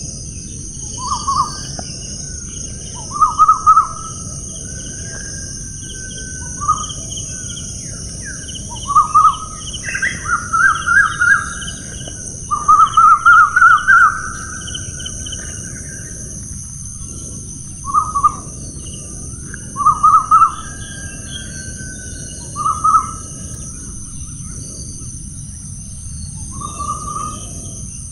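A bird calling in short bouts of quickly repeated notes every few seconds, the longest bout about halfway through, with fainter higher chirps between them. Underneath is a steady high-pitched buzz and a low, even rumble.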